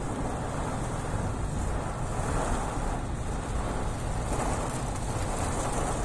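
Fairly heavy rain falling, a steady hiss with a low rumble underneath.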